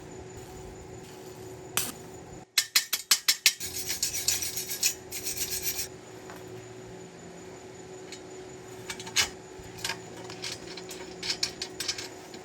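Scraping strokes on a hard surface: a quick run of about seven short strokes a little after two seconds in, then about two seconds of continuous scraping, and a few scattered scrapes and clicks later on, over a faint steady hum.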